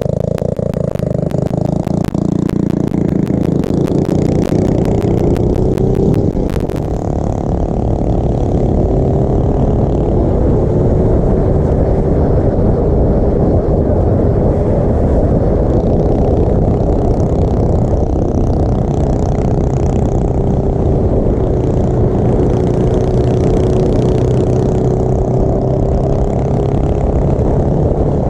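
A small motorbike engine running under way. Its note climbs over the first six or seven seconds, then holds fairly steady with small rises and dips, over a rough rumble.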